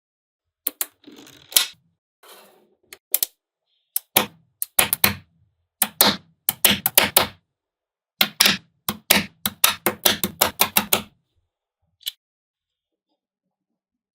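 Small magnetic balls clicking as they snap together and are set in place, in quick irregular clusters of sharp clicks that stop about two seconds before the end.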